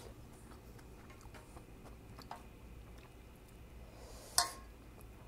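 Quiet close-up chewing of a mouthful of ramyun noodles and oyster pancake, with small faint mouth clicks. A single brief sharp sound stands out about four seconds in.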